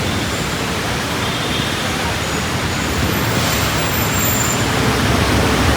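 Steady road-traffic noise mixed with gentle rain falling on a wet street: a continuous, even hiss.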